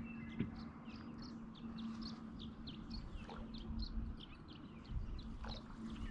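A bird singing a long run of short, high, downslurred notes, about three to four a second, over a steady low hum.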